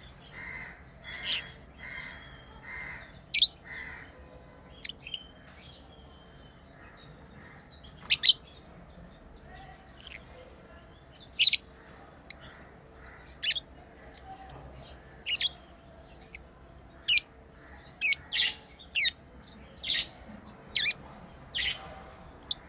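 Pet lovebirds chirping: short, sharp, high-pitched calls, single or in quick pairs, at irregular intervals, with a softer run of repeated chatter in the first few seconds.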